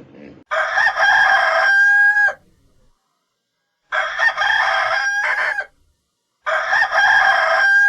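Rooster crowing three times in close succession, each crow ending on a held note.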